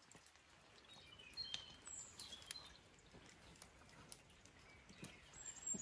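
Near silence with faint bird chirps: a few short high calls between one and three seconds in, and a high call near the end that slides down in pitch.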